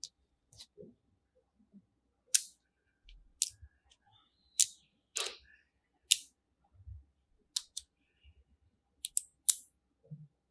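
Sharp clicks of colored magnetic building pieces snapping together, about a dozen at irregular intervals.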